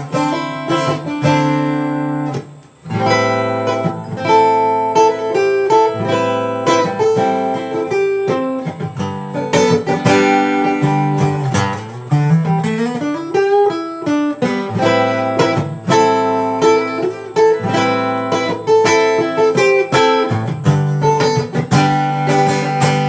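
Acoustic guitar playing an instrumental break of a folk song, picked notes over chords, with a run of notes climbing and then falling about halfway through.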